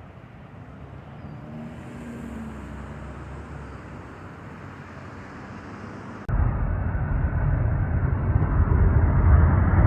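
Jet airliner engine noise: a distant rumble, then, after an abrupt cut about six seconds in, a much louder low rumble that keeps growing as the aircraft nears.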